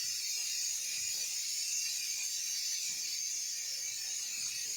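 Steady high-pitched hiss of background noise, with faint scattered ticks underneath.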